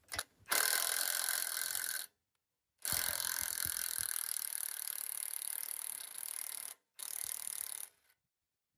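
A handheld power tool run in three trigger bursts, the middle one longest, each starting and stopping sharply with a rattling mechanical whir.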